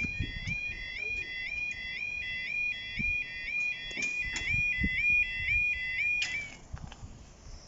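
UK level crossing alarm sounding its two-tone warble, repeating about twice a second, then cutting off suddenly about six seconds in. Low knocks and rumbles sit underneath.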